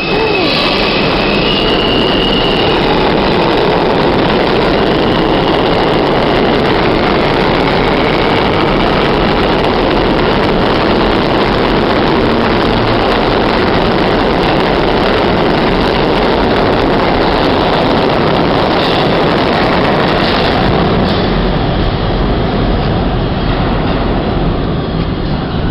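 New York City subway train running between stations, heard from inside the car as a loud, steady rumble of wheels on rail, with a brief high whine in the first few seconds.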